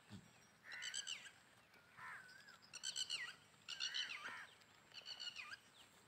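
Birds calling: short bursts of rapid, high chirping notes about once a second, mixed with lower warbling whistles that rise and fall.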